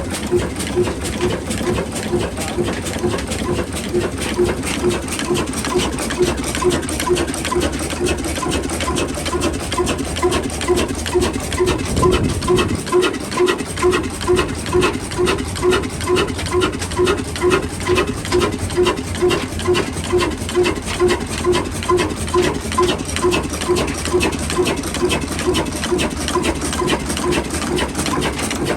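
Old black diesel engine running a flour mill, with a steady, even beat of about two to three pulses a second.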